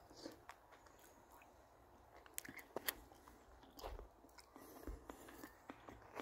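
Someone chewing and biting food close to the microphone: faint, irregular crunches and clicks.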